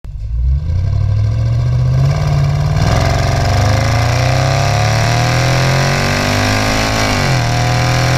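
A car engine rumbling low, then accelerating hard from about three seconds in with its pitch climbing steadily. Near the end the pitch drops sharply as it shifts up a gear, then starts climbing again.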